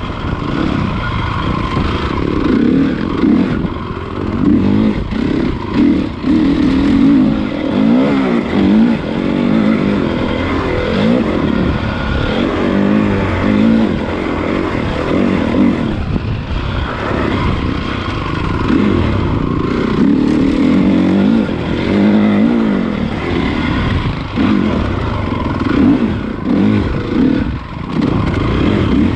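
Honda CRF450 motocross bike's single-cylinder four-stroke engine being ridden, revving up and down over and over as the throttle is opened and shut.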